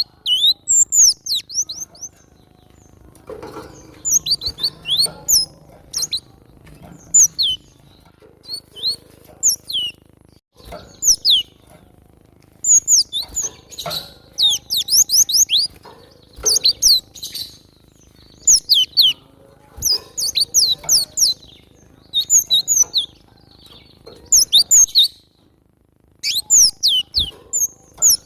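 Cinereous tit (glatik batu) singing: bursts of quick, high, sharply falling notes, several in each burst, repeated every second or two.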